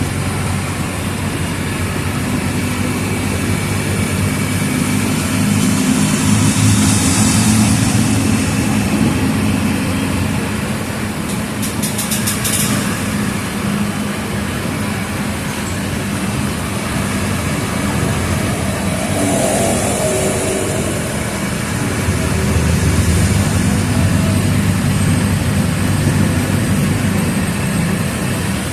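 Mercedes-Benz OF 1722M bus diesel engine running as the bus drives, growing louder twice as it pulls harder. There is a quick run of clicks about twelve seconds in and two short hisses.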